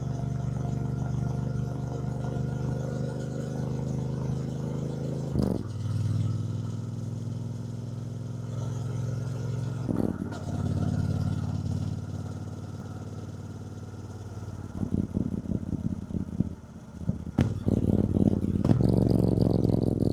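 Triumph Bonneville T120's 1200 cc parallel-twin engine running on the move, with brief breaks in its note about five and ten seconds in. From about fifteen seconds it runs choppy and uneven, then gets louder near the end.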